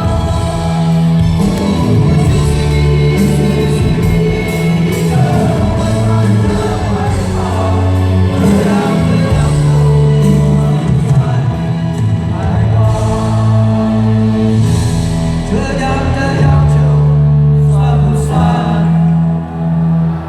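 Live band music played loud in a large concert hall, with singing over the band.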